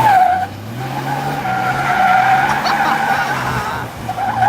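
Tyres squealing in long sustained screeches as a Dodge 2500 Cummins turbo-diesel pickup drifts, its engine running underneath. The squeal drops away briefly about half a second in and again near the end.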